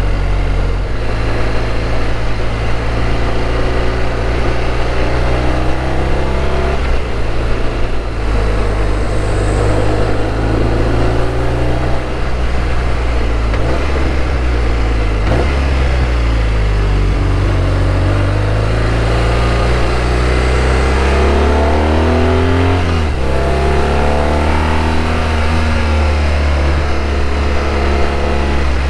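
BMW R1200RT boxer-twin engine under way, its revs falling and rising with the throttle and a gear change about three-quarters of the way through, with wind and road noise across the microphone.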